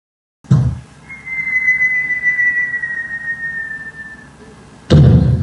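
A low thump, then one long whistle that slides slowly down in pitch for about three seconds. A second loud thump comes near the end.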